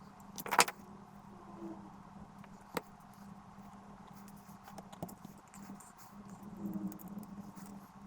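Small clicks and taps from parts being handled on a workbench, over a faint steady hum. The loudest cluster comes about half a second in, a single click near three seconds and lighter ones around five seconds.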